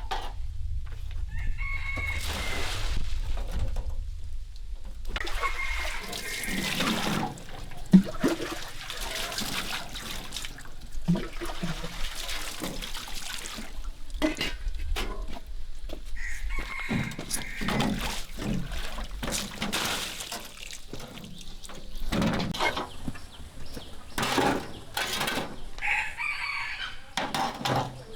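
Chickens clucking and a rooster crowing several times, over intermittent scraping and knocking, with one sharp knock about eight seconds in.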